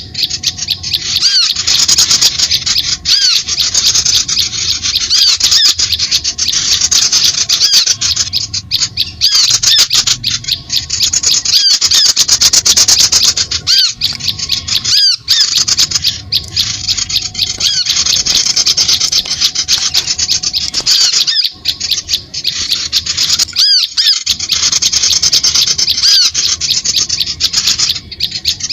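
A dense chorus of many small birds, chattering and chirping without pause in high, squeaky notes, as used in a bird-lure recording.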